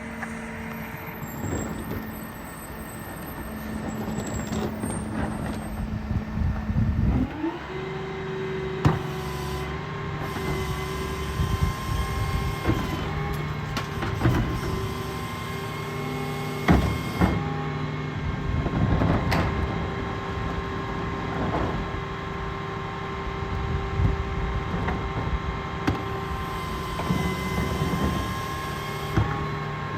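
Garbage truck's diesel engine idling, then speeding up about seven seconds in and holding at higher revs while the hydraulics run, with repeated metallic clanks and knocks.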